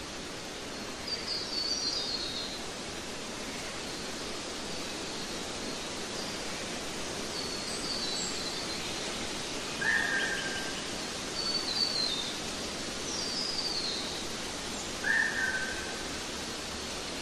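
Nature-sounds ambience: small birds chirping, with short falling chirps every couple of seconds and two louder, lower calls about ten and fifteen seconds in, over a steady hiss.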